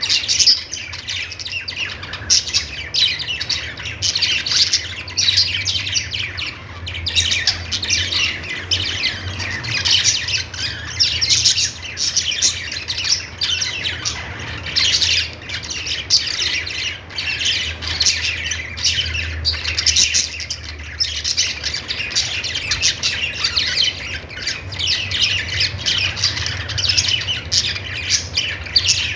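Budgerigars chattering and warbling without a break: a dense stream of quick, high chirps and squawks.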